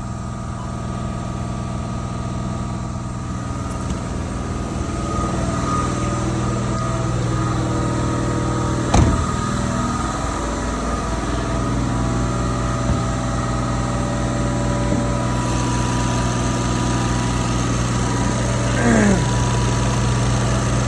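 Car engine idling steadily, with a sharp click about nine seconds in and a short falling tone near the end.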